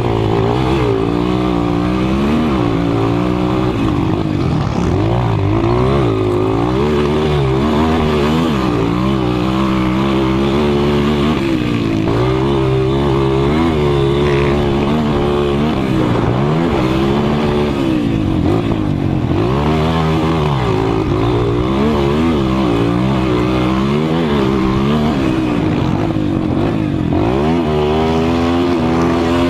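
Motocross motorcycle engine of the 200 cc class at full race, its pitch rising and falling over and over as the throttle opens and closes.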